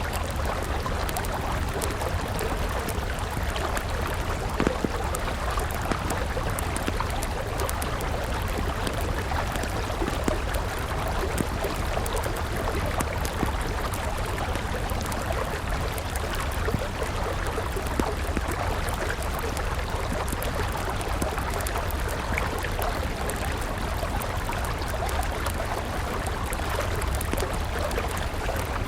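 River water flowing steadily, with a wood campfire crackling over it in many small, irregular pops.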